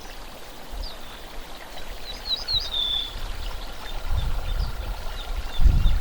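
Penduline tits giving thin, high calls: a quick run of chirps about halfway through ending in one drawn-out call. A low rumble comes in later and is loudest near the end.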